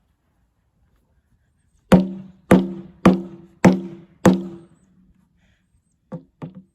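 A steel water heater tank struck hard five times in quick succession, about half a second apart, each blow ringing out and fading, followed by two lighter hits near the end. The blows leave only dents in the tank.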